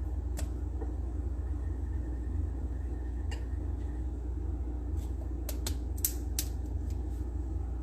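Steady low hum with a few light clicks and taps, as a plastic protein-testing swab is handled during a surface test.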